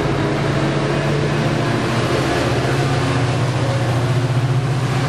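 Diesel locomotive engine of a Coaster commuter train (F40PHM-2C) running under power as the train departs, a steady low drone that strengthens slightly in the second half.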